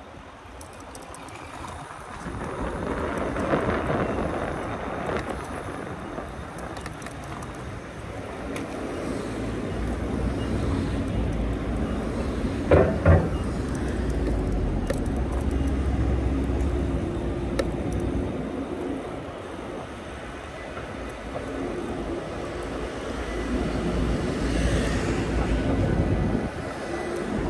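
Riding noise from a Taoci Ve7 fat-tire e-bike on 20x4 INNOVA tires: wind rushing over the microphone and tire noise that swells and eases with speed. About halfway through there is a sharp double knock, like the bike jolting over a bump.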